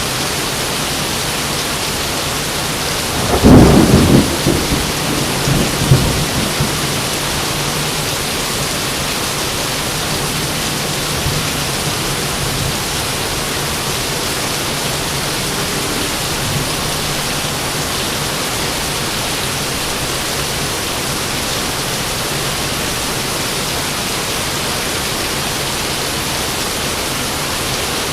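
Steady heavy rain hissing, with a thunderclap about three seconds in that rumbles and fades over the next few seconds.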